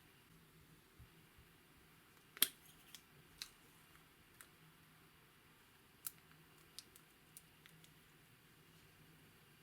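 Clear slime being worked by hand, giving scattered faint sticky clicks and pops at uneven intervals, the loudest about two and a half seconds in.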